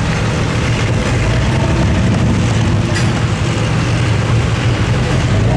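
A competition pulling tractor's engine running hard through a pull: a loud, steady drone.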